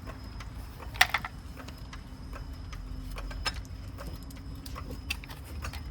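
Irregular metallic clicks and clinks of hand tools being handled during work on a car, the sharpest about a second in, over a steady low hum.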